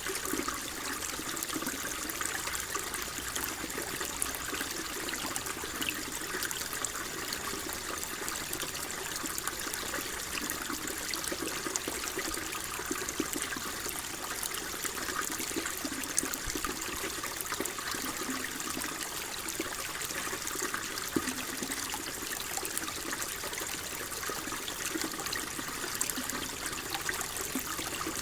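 Steady flowing water, a stream or brook trickling and babbling, with small splashes throughout.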